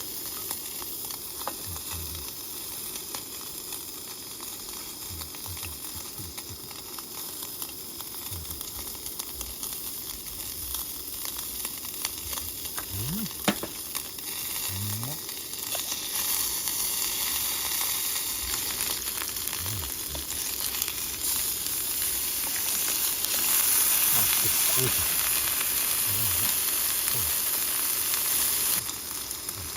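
Salted beef sizzling as it cooks, a steady hiss that grows louder in the second half.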